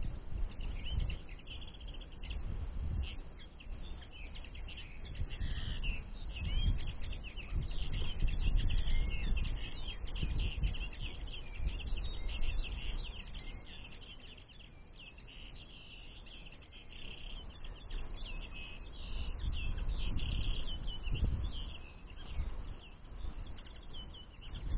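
Common linnets twittering in quick, dense runs of short chirps, over a low rumble that swells and fades.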